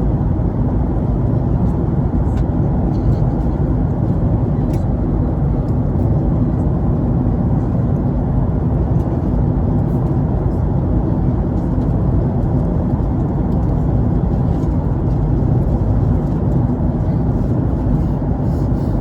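Steady, loud cabin noise of a jet airliner in flight: engine and airflow roar heard from a passenger seat, with a faint steady hum and a few light clicks.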